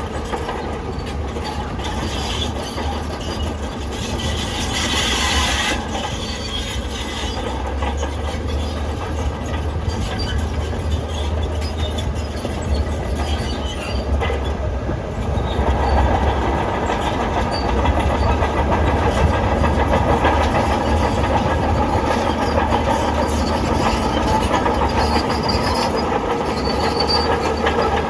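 Crawler bulldozer working: a steady diesel engine drone under the clanking of steel tracks, with a brief high squeal from the tracks about five seconds in. It gets louder from about halfway through as the machine works harder.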